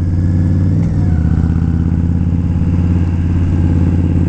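Indian Scout V-twin motorcycle engine running under way at a steady speed. Its note bends and steps down briefly about a second in.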